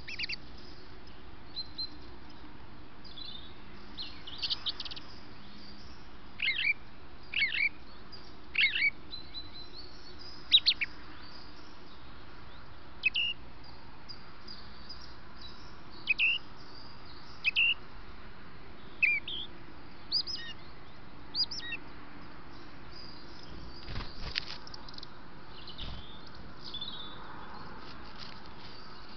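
Songbirds singing and calling: short, clear, high phrases every second or two, some of them repeated two or three times in a row, over a steady faint hiss. A brief crackle sounds near the end.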